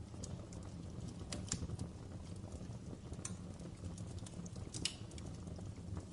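Wood fire crackling in a fireplace: irregular pops and snaps, a few louder ones, over a low steady rumble of burning.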